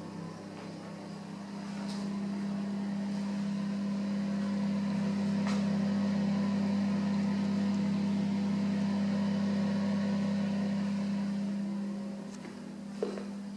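A steady low electrical hum that grows louder a couple of seconds in and fades again near the end, with a faint click about five and a half seconds in.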